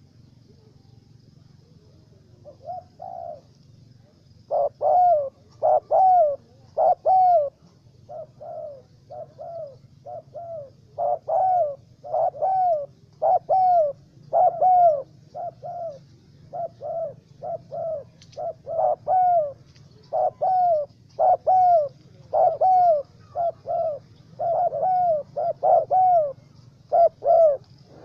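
Spotted dove (tekukur) cooing: a long run of short, arched coo notes in repeated phrases, starting a few seconds in and going on steadily.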